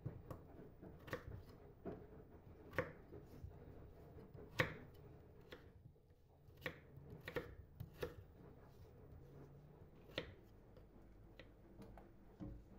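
Light, irregular knocks and taps, about one a second, from objects being handled and set down.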